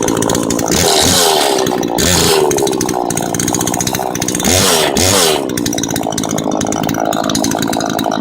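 A chainsaw running and revving up twice, about a second in and again about halfway, with its pitch rising and falling each time as it cuts wood. It runs lower between the two surges.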